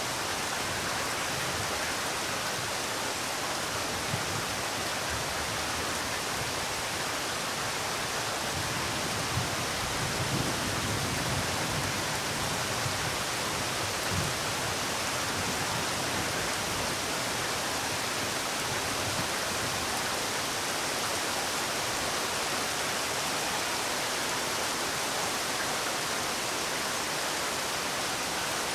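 Steady rainfall: an even hiss of rain falling, with a few slightly louder drops or patters now and then.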